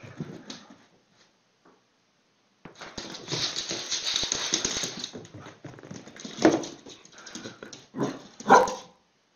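A dog making noises: a dense, noisy stretch of a couple of seconds, then two short, loud sounds, one about six and a half seconds in and one near the end.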